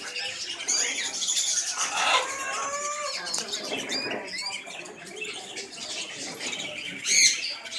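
Canaries chirping, with fluttering wings and a loud call near the end.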